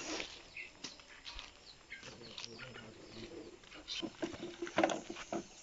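Birds calling: short high chirps, then a low steady call from about two seconds in. A few sharp clicks or knocks come near the end.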